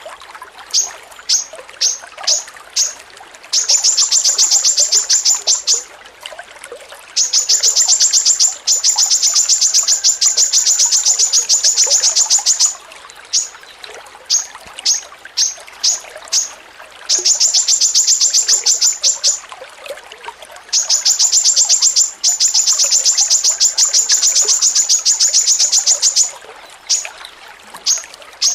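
A songbird repeating a high, sharp note in fast even trains of several seconds, about ten notes a second, broken by stretches of single notes spaced about half a second apart. A faint steady hiss, like trickling water, runs underneath.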